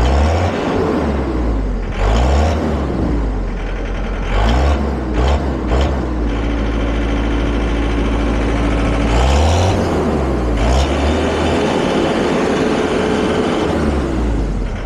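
John Deere 317 skid steer's diesel engine revved up and dropped back several times, held at high revs for a few seconds in the middle, with a new rain cap on its exhaust stack.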